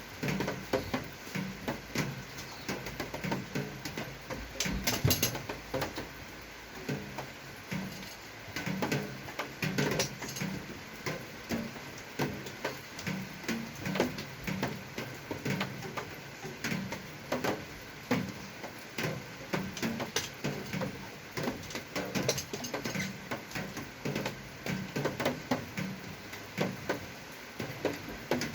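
Irregular light clicks and knocks, several a second, of hand work on bicycle suspension-fork parts.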